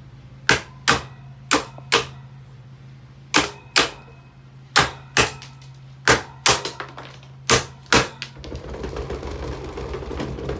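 An electric table fan with a steady motor hum, while sharp knocks come in pairs about every second and a half, six pairs in all. About eight seconds in, a dense rattling buzz takes over.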